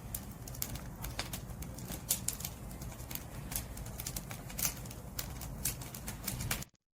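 Wood fire crackling: irregular sharp pops and snaps over a steady low rumble of burning. The sound cuts out completely for a moment near the end.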